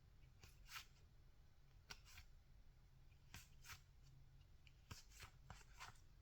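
Faint, soft swishes of baseball cards being slid off a stack one at a time, about ten short strokes at uneven intervals over a low room hum.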